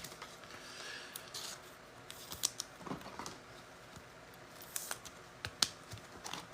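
Trading cards and their packaging being handled on a table: faint rustling with scattered light clicks and several sharper snaps.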